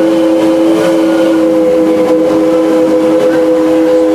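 Steam locomotive's chime whistle blowing one long steady blast, a loud chord of several notes.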